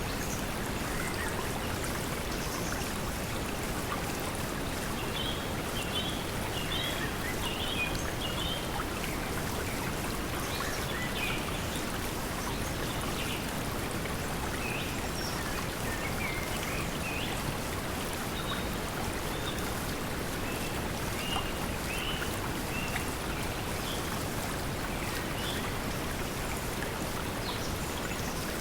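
Steady pink noise blended with the sound of flowing water, with short bird chirps scattered through it.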